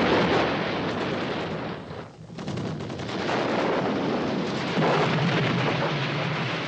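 Battle noise of gunfire and explosions, starting abruptly and running on densely, with a brief lull about two seconds in and a swell about five seconds in.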